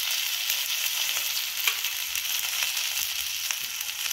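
Alu vadi slices (colocasia-leaf rolls) sizzling steadily as they shallow-fry in oil in a pan over a wood fire, with scattered small pops and crackles.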